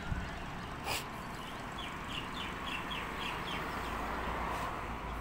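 A bird calling a quick run of about eight short, high notes, roughly four a second, over steady outdoor background noise. A single sharp click comes about a second in.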